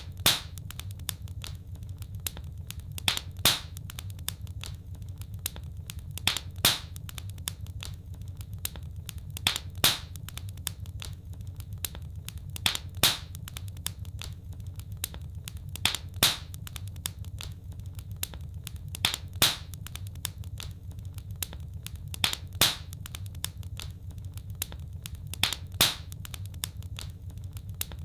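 Wood fire crackling over a steady low rumble, with many small crackles and a pair of sharp pops about every three seconds.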